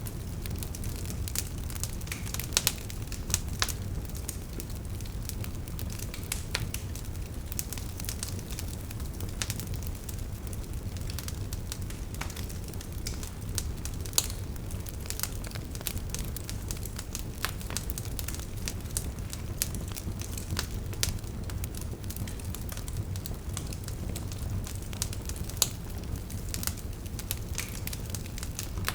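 Wood fire burning, with a steady low rumble and irregular sharp crackles and pops from the logs; a few pops stand out louder.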